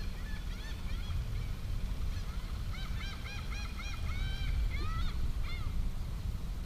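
A bird calling a run of short, arched notes, about three a second, over a steady low rumble.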